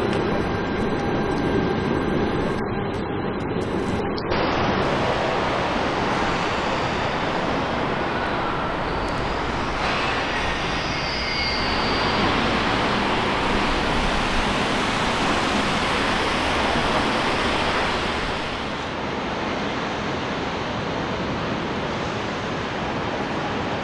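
Steady rumbling and rushing of a passenger train running along the tracks through the rail yard, with a brighter hiss from about ten to eighteen seconds in.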